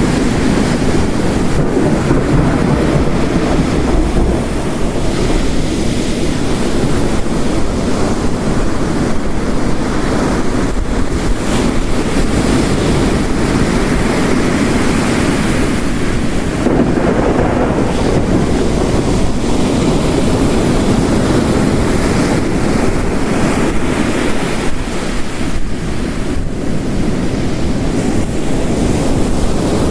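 Layered storm ambience: ocean waves crashing on a rocky coast mixed with heavy rain, a continuous dense roar that swells and eases slightly.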